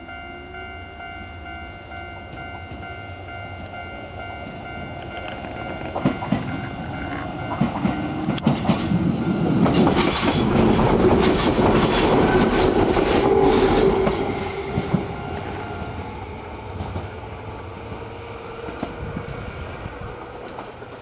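Enshu Railway 1000 series electric train pulling away and passing close by, its wheels clicking over rail joints. It builds to its loudest about ten to fourteen seconds in, then fades as it moves off.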